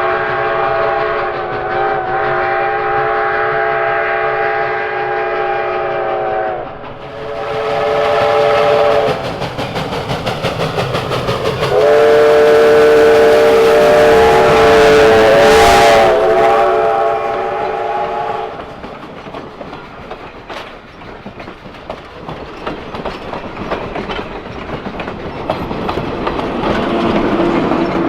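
Steam locomotive's chime whistle sounding a chord of several notes in three blasts: a long one, a short one, and another long one, with the train's running noise between them. After the last blast the train rolls on with a rhythmic clatter of wheels on rail joints.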